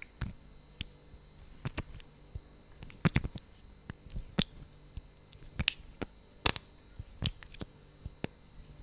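Wet, sticky lip-gloss lip smacks and mouth clicks: about fifteen short separate pops at irregular intervals, one louder pop about two-thirds of the way through.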